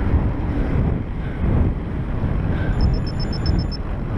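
Wind buffeting the microphone of a camera carried on a moving bicycle, a loud, uneven low rumble. A quick run of faint high-pitched pips about three seconds in.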